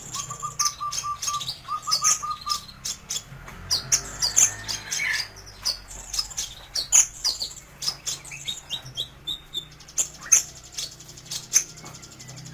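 Kolibri ninja sunbird singing: a fast, busy stream of high, sharp chirps and twitters, with a short run of quick repeated lower notes in the first two seconds.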